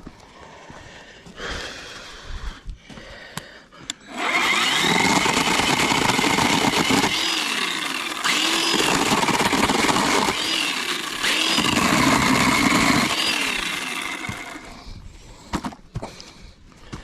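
A small engine running loud for about ten seconds, starting about four seconds in, its pitch rising and falling again and again as it is revved up and down.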